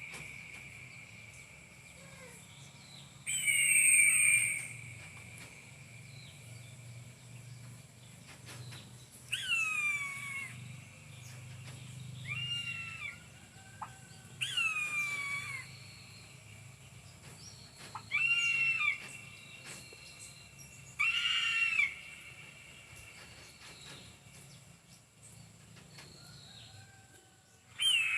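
Captive eagle calling: a series of about six high calls, each falling in pitch, repeated every few seconds.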